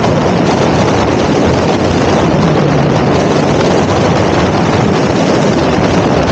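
Loud, steady wind noise on the camera's microphone while riding a fast electric bike, with no clear motor tone showing through.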